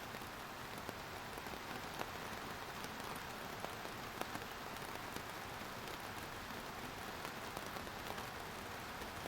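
Steady rain falling on a surface: an even hiss with frequent sharp ticks of individual drops.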